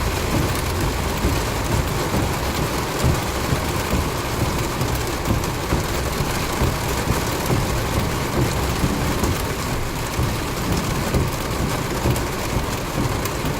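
Heavy rain falling steadily during a thunderstorm, with a low rumble underneath.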